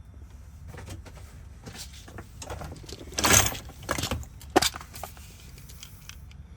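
Small metal lock parts and keys being handled: light clicks and scrapes, the loudest a short rattle about three seconds in, followed by two sharp clicks.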